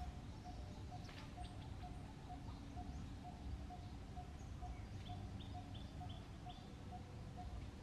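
Birds calling over a low outdoor rumble. One low note repeats evenly about twice a second, and about five seconds in a run of five short, higher calls comes quickly one after another.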